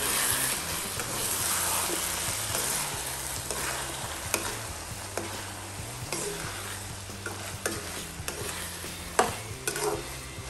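Milkfish stuffing with diced potato and carrot sizzling in a nonstick frying pan while a metal utensil stirs and scrapes it, with scattered clicks against the pan. The sizzle is strongest at first and slowly eases, and there is one sharp knock of the utensil on the pan a little before the end.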